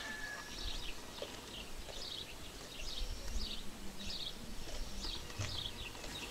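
Small birds chirping over and over, short high falling chirps roughly every half second, over a low rumble.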